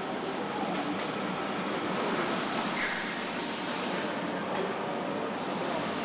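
Steady, even machinery noise of a truck assembly hall.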